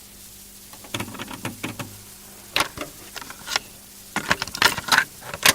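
An irregular run of sharp clicks and knocks over a faint steady hum and hiss, growing busier toward the end.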